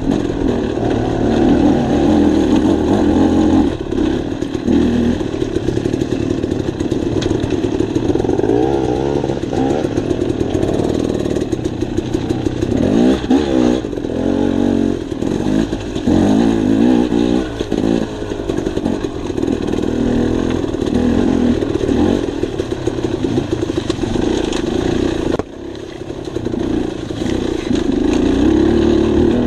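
Dirt bike engine running on a trail ride, its pitch rising and falling as the throttle is opened and eased, with a brief drop about 25 seconds in.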